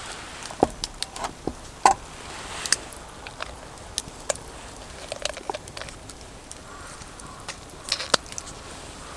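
Wood campfire crackling: irregular sharp pops and clicks over a soft steady hiss, the loudest pops about two seconds in and near the end.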